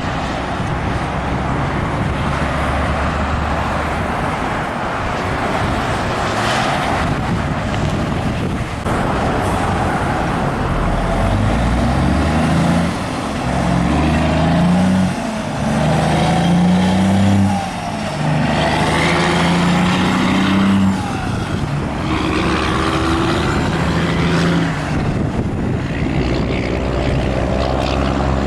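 Big rig's diesel engine pulling away and working up through the gears. Each gear's note rises and then drops at the shift, about five shifts from midway on, over steady road and tyre noise from traffic.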